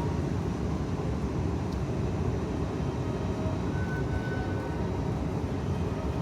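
Steady low rumble of an Airbus A321neo in flight, engine and airflow noise heard from inside the passenger cabin. A faint high tone comes in briefly about four seconds in.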